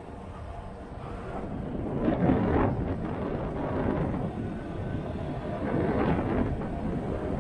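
Motorcycle on the move: engine running under a rush of wind on the microphone, swelling louder about two seconds in.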